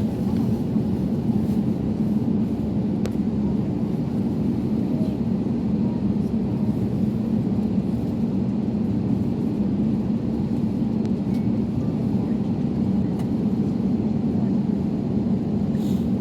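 Steady low rumble inside an Airbus A321neo's cabin on the ground before takeoff, from the engines at idle and the air conditioning. It holds an even level throughout.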